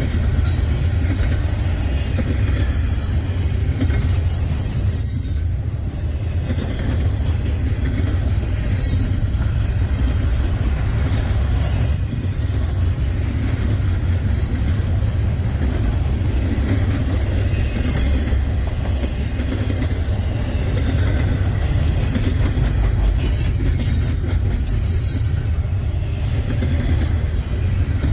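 Freight train's tank cars rolling past: a steady, loud low rumble of rail cars with intermittent high-pitched wheel squeal.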